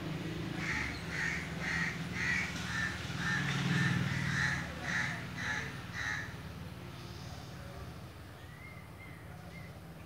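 A bird calling in a quick series of about eleven short, evenly spaced notes, roughly two a second, stopping about six seconds in.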